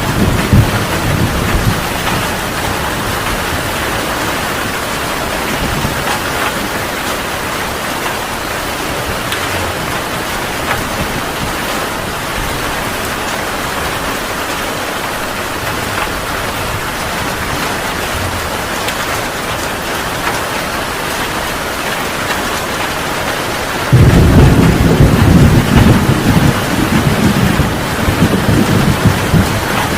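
Heavy rain falling steadily in a thunderstorm. A low thunder rumble dies away in the first couple of seconds, then about 24 seconds in a loud roll of thunder breaks in suddenly and keeps rumbling over the rain.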